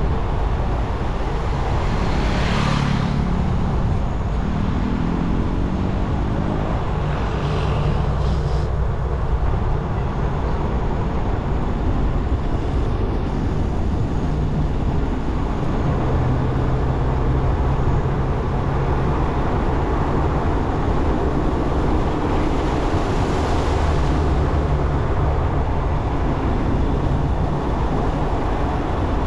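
Motorcycle engine running under way with wind and road noise; its pitch rises and falls with the throttle. Two brief rushing swells come in, one a couple of seconds in and one near the end.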